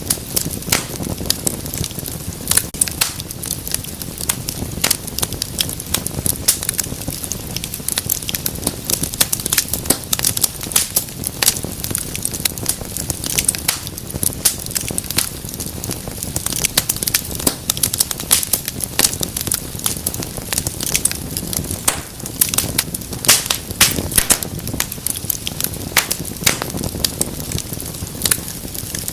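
Wood fire in a fireplace crackling steadily: frequent irregular sharp pops and snaps over a soft low rush of flames.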